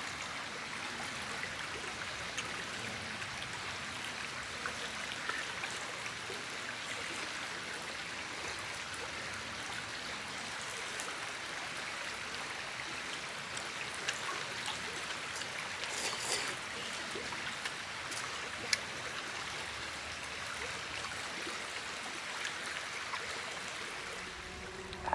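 River water flowing steadily, a continuous rushing hiss, with scattered faint clicks and a sharper click or two.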